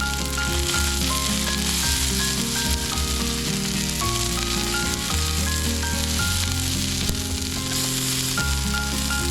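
Steak sizzling steadily as it fries in a hot pan, under background music with a melody and a bass line.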